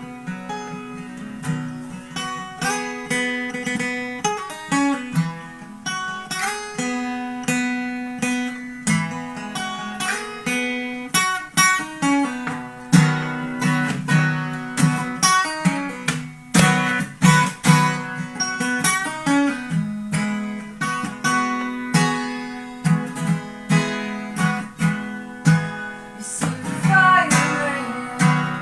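Acoustic guitar playing an instrumental passage: picked notes and strums, each fading, over a low note that keeps ringing beneath them.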